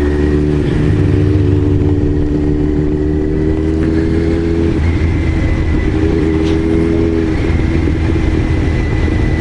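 Kawasaki Z900RS inline-four with an aftermarket titanium full exhaust running as the bike is ridden, with wind rush on the microphone; the engine note shifts pitch about five seconds in and again about seven seconds in.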